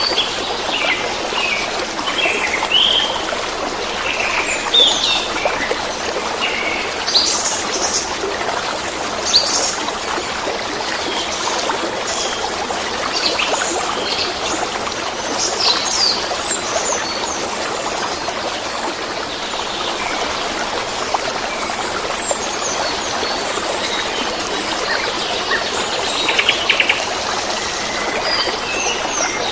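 Steady rush of flowing water, with small birds chirping and calling over it in short high notes. A quick trill comes near the end.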